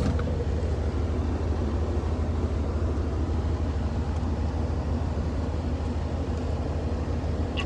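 A vehicle's engine running with a steady low hum under an even wash of road noise, typical of a pickup truck being driven.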